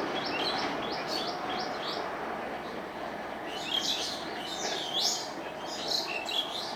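Small birds chirping: a quick run of short, repeated chirps in the first two seconds, then louder, more varied chirping about halfway through, over a steady background noise that slowly fades.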